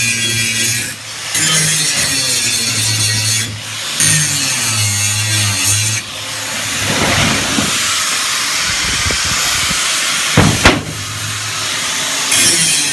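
Angle grinder grinding down steel weld seams: a loud, continuous hiss with a low motor hum, broken by brief pauses. About six seconds in the sound changes and the hum drops out. A couple of sharp knocks come about ten and a half seconds in.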